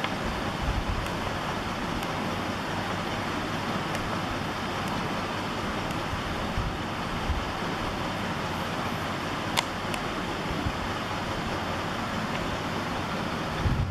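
Steady rushing road and wind noise, with a single sharp click near the end.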